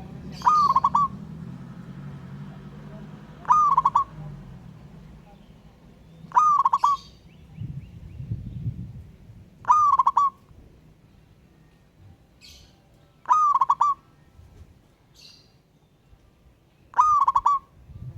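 Zebra dove (perkutut) cooing: six short phrases of quick repeated notes, spaced about three seconds apart. A low rumble runs under the first half.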